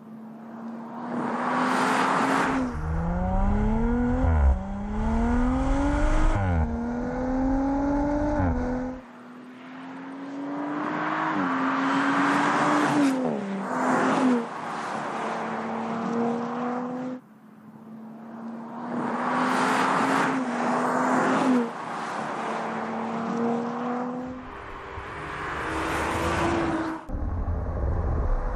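2018 Audi RS4 Avant's 2.9-litre twin-turbo V6 accelerating hard through the gears, its pitch climbing and dropping at each upshift. Several pulls, with road and wind noise swelling along with them.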